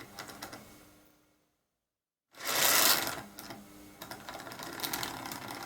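Marx 0-4-0 switcher toy locomotive's electric motor and gears running at low speed with a fine, rapid mechanical buzz. It dies away about a second in, goes silent for over a second, then starts up again and runs on quietly.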